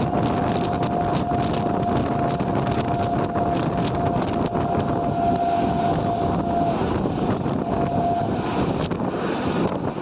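Train passing at speed close by, a steady loud rush of wheels and rail with many short clicks. A single steady high tone runs through most of it, breaking off about seven seconds in and sounding again briefly a second later.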